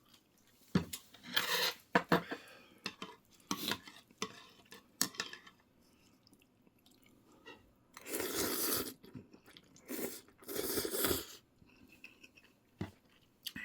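Eating at a meal of noodles and meat: cutlery clicking and clinking against dishes several times, with chewing, and two longer, louder noisy stretches of about a second each in the second half.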